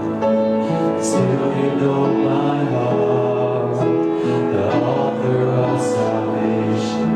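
A contemporary worship song played by a band, with the congregation singing along in sustained chords.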